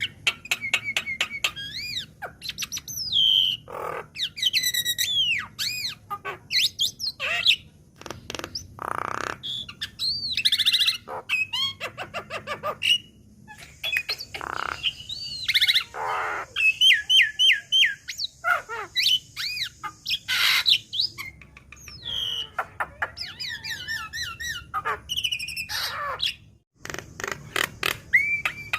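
Javan myna (jalak kebo) singing: a fast, varied string of bending whistles, rapid clicking chatter and harsh squawks, broken by short pauses.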